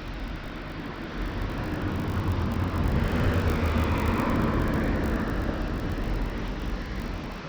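A vehicle passing close by: its rumble and noise build up over the first few seconds, peak in the middle and fade away toward the end.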